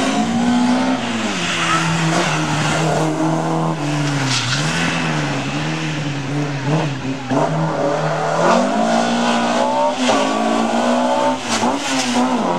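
Opel Kadett C Coupé's engine worked hard on a slalom course, its pitch repeatedly rising under throttle and dropping on lifts and gear changes, with quicker rises and drops from about eight seconds in.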